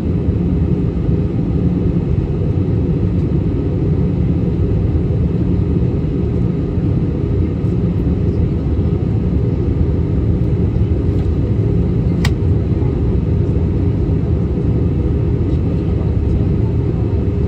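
Steady low rumble of an airliner's engines and airflow heard inside the passenger cabin on approach, with a single short click about twelve seconds in.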